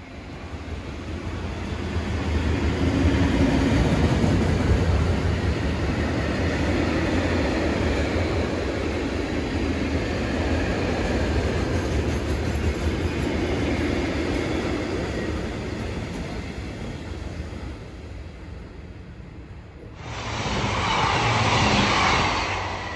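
A train passing on the railway line: its noise builds over the first few seconds, holds steady, then slowly fades away. Near the end a different, brighter rushing noise cuts in abruptly.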